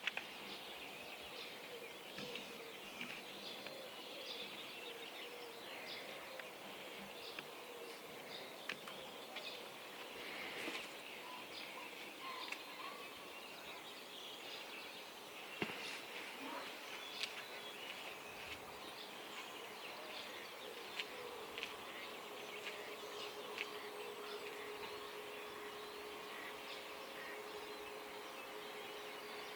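Dawn chorus of many birds chirping and calling over a steady background hiss. A steady low hum joins about two-thirds of the way through.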